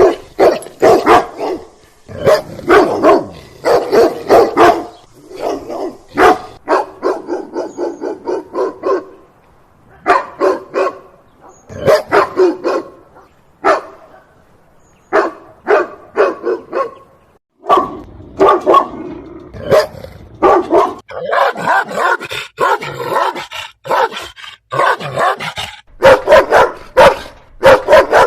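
Dogs barking loudly and aggressively in repeated bursts of short barks, with brief pauses between the bursts.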